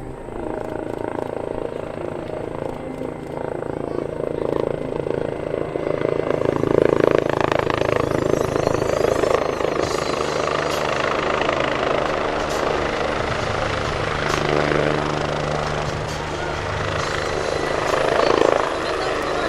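Aircraft engine noise, loud and continuous, growing louder about six seconds in.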